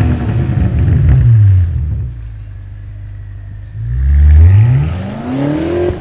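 BMW M5 Touring's twin-turbo V8 through a DCE catback exhaust with X-pipe and OPF delete, heard from outside. The revs fall away about a second and a half in and settle to a lower note. Near the middle the car accelerates hard, its pitch climbing steeply, and this is the loudest part.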